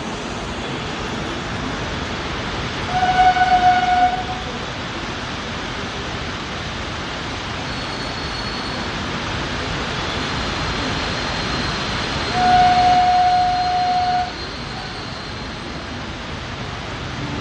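Steady rushing noise of a train running in the rain, with two single-note train horn blasts at the same pitch: a short, wavering one about three seconds in and a longer, steadier one about twelve seconds in.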